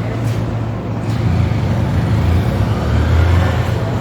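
City road traffic: a steady low engine rumble with road noise, growing louder for a while in the second half as a heavy vehicle passes.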